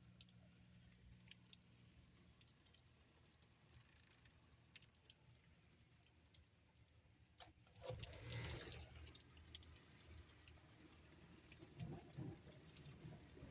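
Faint scattered patter of rain drops and drips, with a louder rush of noise swelling about eight seconds in.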